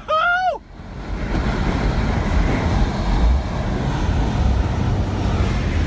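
Loud, steady rumbling wind noise buffeting the microphone, after a brief high-pitched sound at the very start that rises and falls in pitch.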